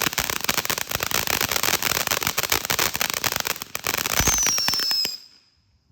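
Ground firework going off with a dense, rapid crackle, joined just after four seconds in by a high whistle sliding slightly down in pitch, then cutting off suddenly about five seconds in.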